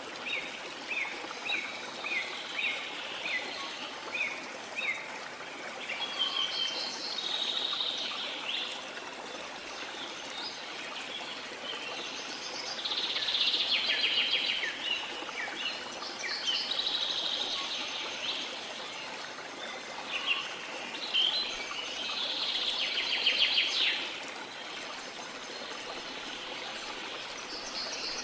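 Birds singing over a steady rush of waterfall water. A run of short falling chirps comes in the first few seconds, then dense bursts of trilling song every few seconds.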